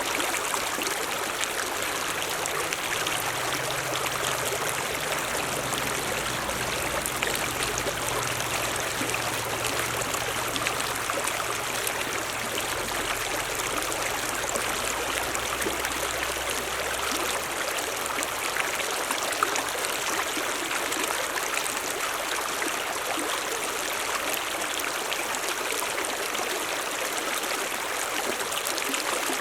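Mountain stream rushing steadily, an even wash of water noise, with a faint low hum underneath for the first two-thirds or so.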